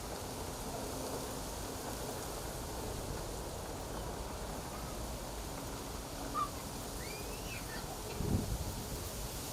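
Wind blowing through reeds, with a steady low wind rumble and a few faint bird chirps in the second half. A brief low thump about eight seconds in.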